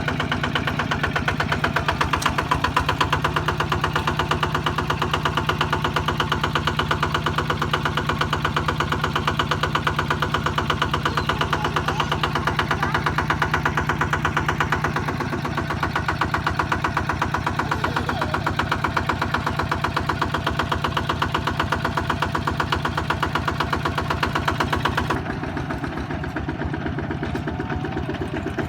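Kubota ZT155 single-cylinder diesel engine running steadily with a fast, even beat. About 25 s in, it turns quieter and duller.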